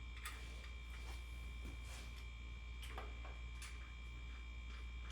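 Faint, scattered clicks and light knocks from parts being handled, over a steady low electrical hum and a thin, steady high whine.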